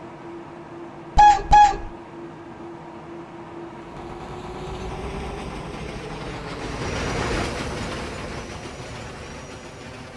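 Subway train of R40 slant and R15 cars departing: two short horn toots about a second in, then the train's rumble and wheel noise swell as it pulls out and passes, peaking around seven seconds in and fading.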